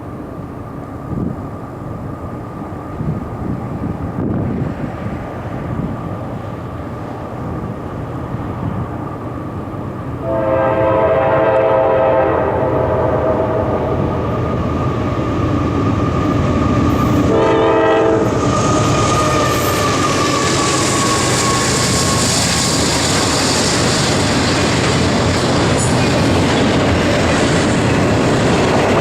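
Diesel freight train approaching with a growing rumble. Its air horn sounds a long chord about ten seconds in and a short blast about seven seconds later, and then the cars pass close by with a steady clatter of wheels on rail.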